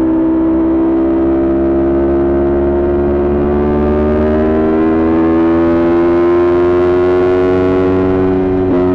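Kawasaki Ninja 400 parallel-twin engine with an aftermarket Coffman exhaust, pulling under load with the revs climbing slowly and steadily. Near the end the note breaks and drops briefly at a gear change.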